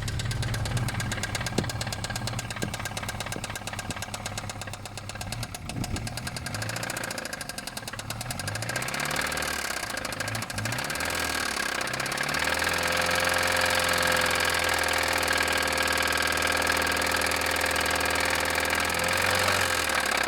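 2000 Toyota Corolla's four-cylinder engine running with a knock, revved up and down a few times, then held at high revs for several seconds before dropping back to idle near the end. The engine is failing and close to dying.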